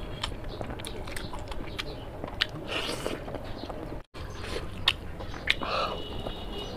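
A person chewing and biting food close to the microphone, with many short, sharp wet clicks. The sound cuts out for a moment about four seconds in.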